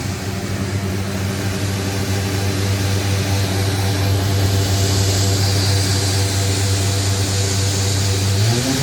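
Farm harvesting machine's diesel engine running steadily under load while grain is unloaded, with a rushing hiss that grows stronger over it. Near the end the engine's pitch rises.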